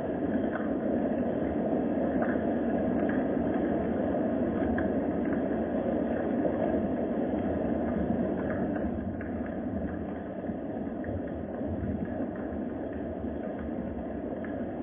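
Steady low rumbling ambient noise with faint scattered ticks, easing slightly about two thirds of the way through.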